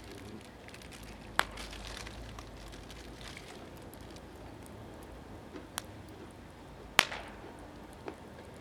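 Wood fire crackling: a sharp pop about a second and a half in, a louder pop near seven seconds, and a few smaller ones, over faint steady crackle. The firewood is mostly green, gathered wood.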